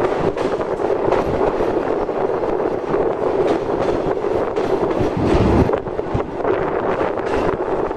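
Passenger train running on the track: a steady rumble of the coaches' wheels on the rails, with short clicks and knocks scattered through it.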